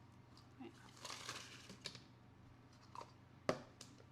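Plastic toy capsule and its small sealed plastic bags being handled: faint crinkling and a few light clicks and taps, the loudest a sharp tap about three and a half seconds in.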